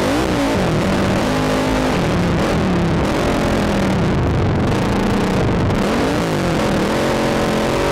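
Sport ATV engine revving up and down again and again, its pitch climbing and dropping every second or so, over a steady rushing hiss.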